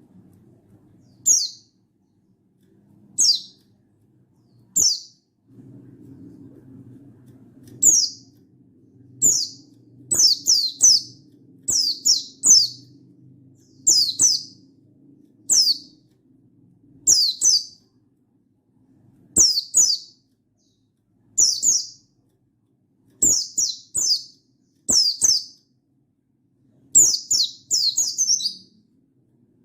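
Buxtoni white-eye (pleci) calling: short, high calls that fall in pitch, given singly or in quick runs of two to four, every second or two, over a faint low hum.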